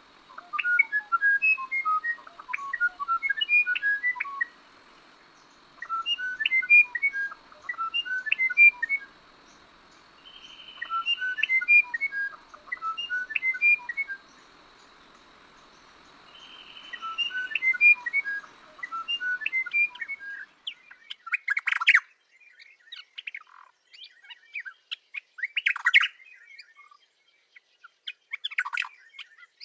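Songbird singing: four phrases of clear whistled notes with short pauses between them. About twenty seconds in it changes abruptly to sharper, scattered chirps.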